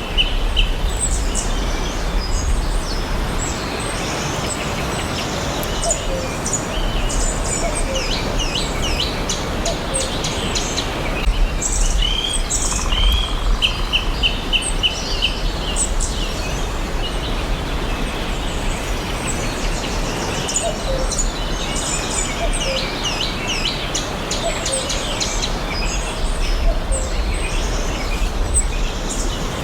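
Several forest birds chirping and trilling, with short repeated notes and quick rattling trills coming and going throughout, over a steady low background rumble and hiss.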